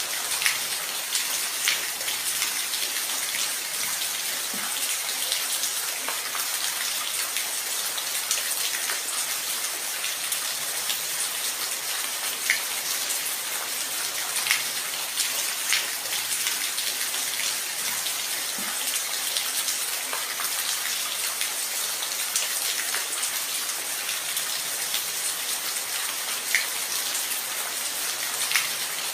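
Steady rain falling, a dense even hiss with occasional sharper, louder drips standing out from it.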